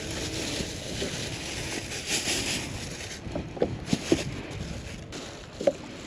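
Wind on the microphone and water lapping against a kayak, with a few short splashes about three and a half to four seconds in and again near the end.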